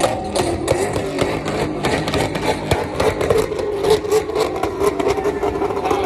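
A car's engine held at high revs during a burnout, its pitch wavering as the throttle is worked, with rapid sharp crackles over it.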